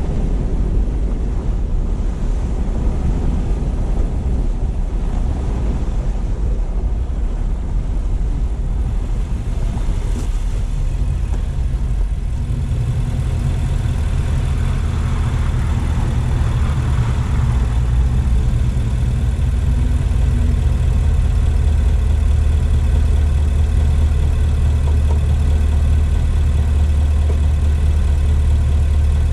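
Car on the move, a low rumble of engine and road noise; about twelve seconds in it settles into a steady engine hum, as when the car slows and idles.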